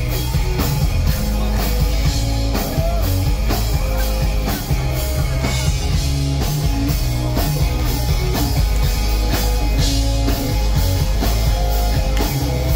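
Live pop-punk band playing an instrumental passage through a club PA: drum kit keeping a steady beat under electric guitar and bass, with no vocals.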